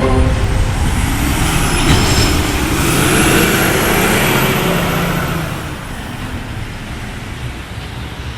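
Heavy road vehicle noise, like a truck running. It is louder in the first half and drops down about five and a half seconds in.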